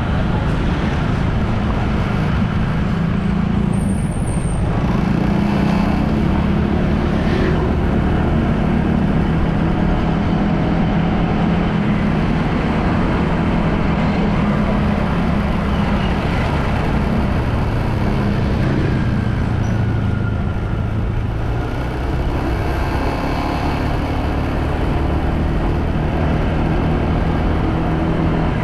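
Motorbike engine running steadily while riding, under a constant rush of road noise, with small shifts in engine pitch as the speed changes.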